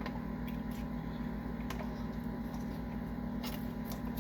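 Steady low hum with a few faint clicks from takeout sauce containers and packaging being handled.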